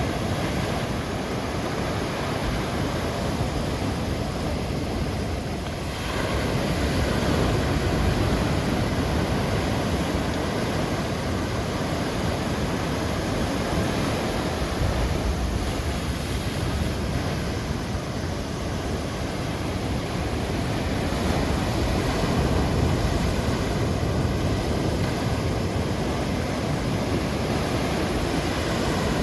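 Heavy surf from typhoon-driven waves breaking on a beach, a continuous wash of noise that gets louder about six seconds in and swells again later as bigger waves come in.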